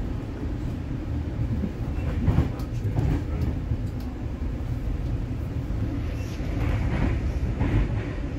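Interior running noise of a Comeng-built NSW TrainLink V set intercity electric train carriage: a steady low rumble from wheels on the track, with a few sharper knocks a couple of seconds in and again near the end.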